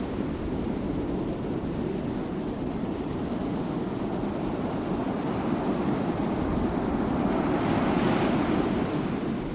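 Sea waves breaking and washing ashore in a steady surf, swelling to a louder wash about eight seconds in.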